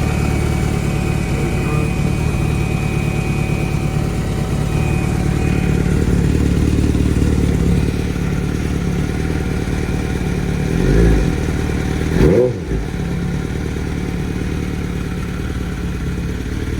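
2006 Suzuki GSX-R600's inline-four engine idling steadily while the fresh coolant circulates, with two quick throttle blips about eleven and twelve seconds in before it settles back to idle.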